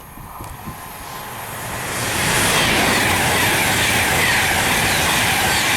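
Virgin Trains Class 390 Pendolino electric train passing at speed: the rush of air and wheels swells over the first two seconds, then holds loud and steady as the carriages go by.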